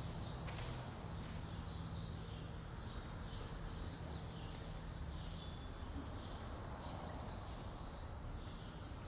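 Faint chirping of a small bird, repeated evenly at about two chirps a second, over room noise and a low hum that stops about halfway through.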